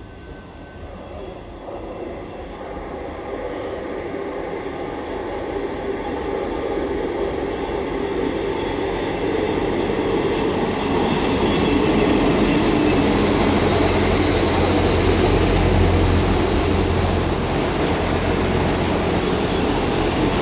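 Two-car Class 158 diesel multiple unit drawing slowly into the platform. Its engine rumble and wheel noise grow steadily louder over the first twelve seconds or so, joined by a steady high whine.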